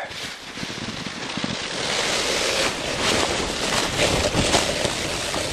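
Snowboard sliding and turning through snow, a steady rushing hiss with wind buffeting the microphone, growing louder over the first two seconds as the board picks up speed.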